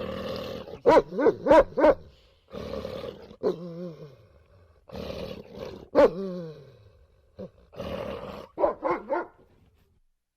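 A dog barking in short runs of sharp barks, with rough, growl-like stretches between them; the sound stops shortly before the end.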